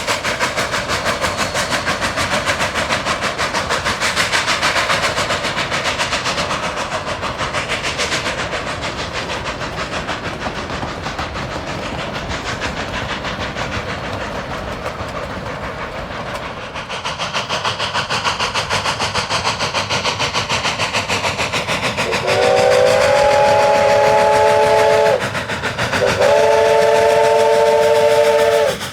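D&RGW K36 No. 487, a narrow-gauge 2-8-2 steam locomotive, running with a fast, even beat. About 22 seconds in, its steam whistle sounds a chord in two long blasts, louder than the running.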